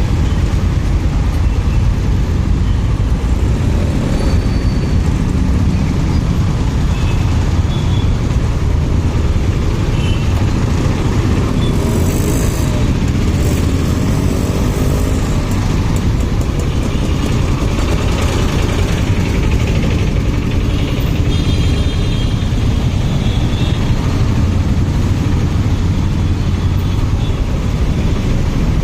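Motorcycle under way in traffic: steady heavy wind rumble on the microphone over the running engine, with passing traffic.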